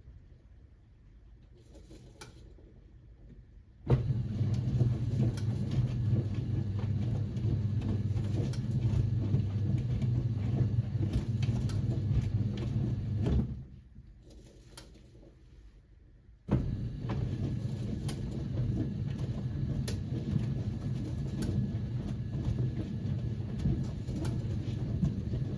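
1978 Siemens WA4600 washing machine in its wash cycle, tumbling a load of jeans. The drum motor starts suddenly about four seconds in and turns for about ten seconds. It stops for about three seconds, then starts again.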